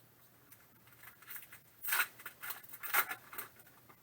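Trading cards being slid and flipped against each other in the hands: a run of short, dry scraping rustles.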